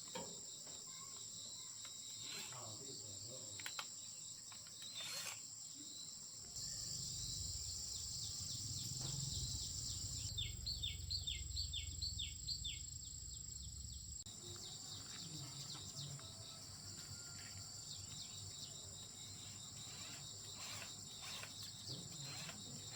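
Steady high-pitched drone of insects. It is joined by scattered light clicks, a low rumble for several seconds in the middle, and a quick run of about seven short chirps during that rumble.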